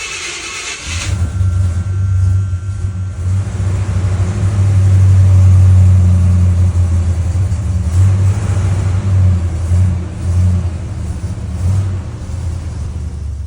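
1978 Cadillac Coupe de Ville's 425 cubic-inch V8 catching on a cold start about a second in, after two months unused. It runs with a deep, steady note that rises to its loudest a few seconds in and then eases back a little as it settles into a fast cold idle.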